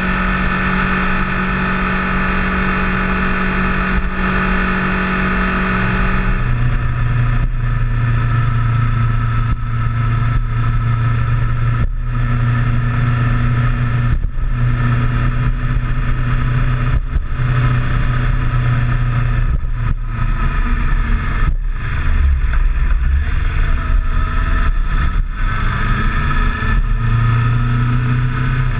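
Motorcycle engine running steadily under way. About six seconds in, its note drops abruptly to a lower, deeper pitch, and after that the sound dips briefly several times.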